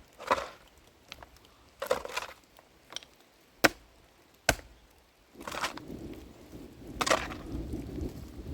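A series of sharp, irregular chopping knocks, about six of them one to two seconds apart. A low rumbling noise comes in about five seconds in and runs under the later knocks.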